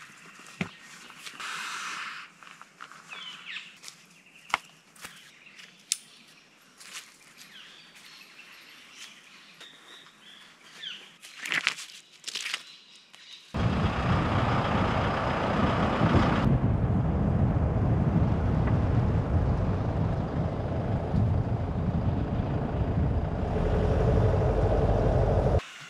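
Faint bird chirps with scattered clicks. About halfway through, a loud steady rushing noise cuts in suddenly, runs for about twelve seconds and stops abruptly.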